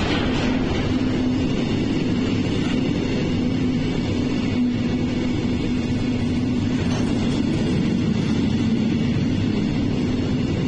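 Freight train running past a station platform: a steady rumble of wheels on rail with a steady low hum running through it.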